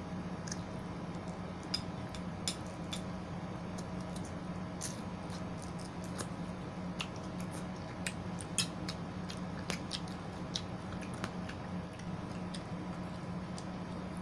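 Close-up chewing of juicy yellow watermelon and pineapple, with scattered sharp wet mouth clicks and smacks, over a steady low hum.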